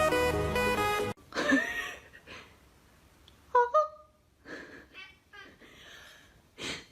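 Electronic dance music cuts off about a second in. Then a cat makes quiet breathy sounds and two short, high chirp-like calls in quick succession a little past the middle.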